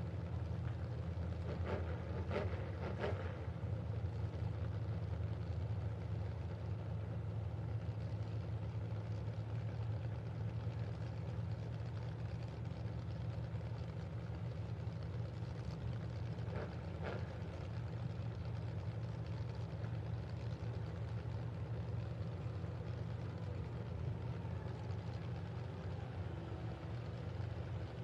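Steady low drone of truck engines idling.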